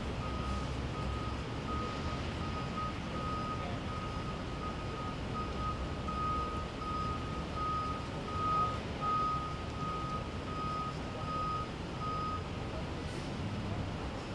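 A truck's reversing alarm beeping steadily, about two beeps a second, over the low rumble of an engine; the beeping stops near the end.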